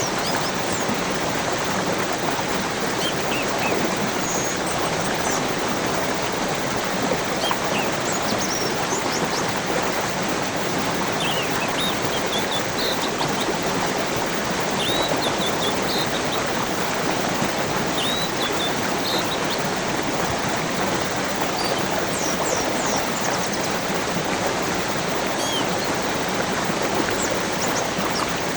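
Flowing stream rushing steadily, with birds chirping now and then over it in short, high calls.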